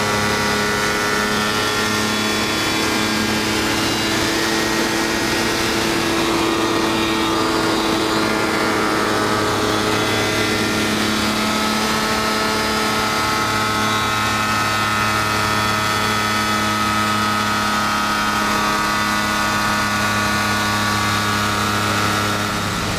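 Kitfox light aircraft's engine and propeller running steadily, with the pitch wavering only slightly.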